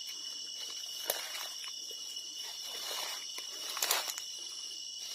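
Steady, high-pitched chorus of crickets and other insects, with footsteps rustling and crackling on the ground. There is a sharp crackle about a second in and a louder cluster near four seconds.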